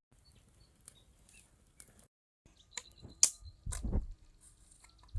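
Faint outdoor background with a few short high chirps, then a moment of dead silence. After that come several sharp clicks and knocks with low thuds, the loudest a little past three seconds in.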